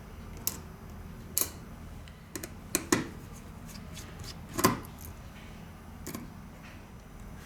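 Small metal hand tools clicking and tapping against a phone during repair work: about seven short, sharp clicks at irregular intervals, the loudest about two-thirds of the way in, over a steady low hum.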